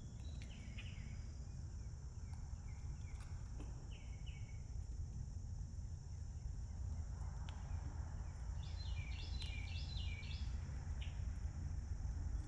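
Outdoor ambience of a steady, high insect drone over a low rumble, with small birds chirping a few short notes and a quick run of chirps about three quarters of the way through.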